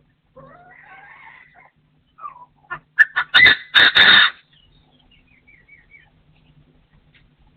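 Partridge calling: a loud, harsh call of several quick notes about three seconds in, with fainter calls before it and a run of quick, falling chirps after.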